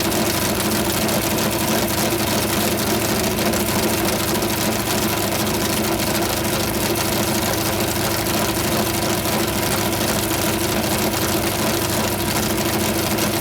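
McLaren M1B's Ford V8 racing engine idling steadily, without revs.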